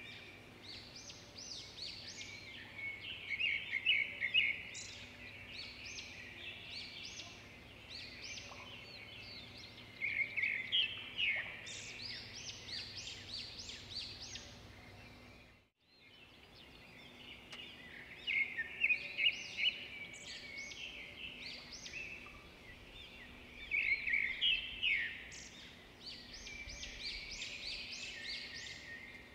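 Songbirds chirping and trilling in bursts over a faint steady hum. The track cuts to silence for a moment about halfway through, then starts again.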